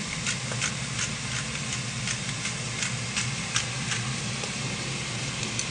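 Prawns frying in oil in a stainless steel pan: a steady sizzle with irregular crackling pops, over a constant low hum.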